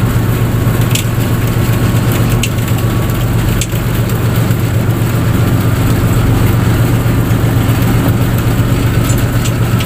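A fishing boat's engine running steadily with a low drone, plus a few faint clicks in the first few seconds.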